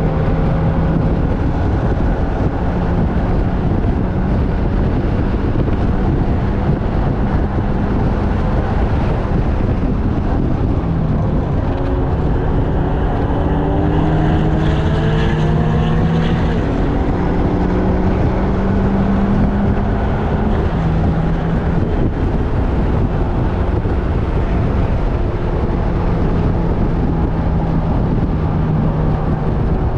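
Onboard sound of a track-day vehicle at speed: the engine note climbs and drops in pitch as it accelerates and lifts through the corners, over a heavy rush of wind on the microphone.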